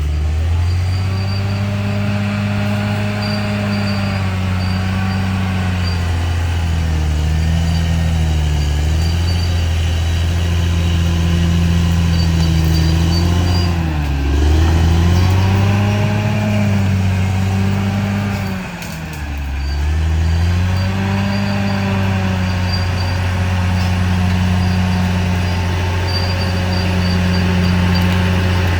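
Bulldozer's diesel engine running steadily under load. Its pitch sags twice, once around the middle and again a few seconds later, as the engine lugs under the push and then recovers.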